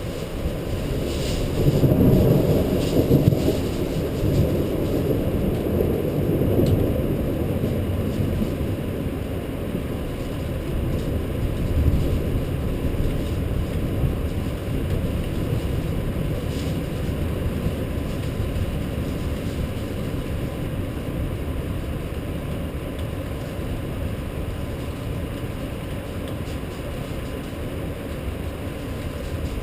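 Thunder rumbling, swelling with a few sharp crackles in the first seconds and then fading into a long, steady low rumble.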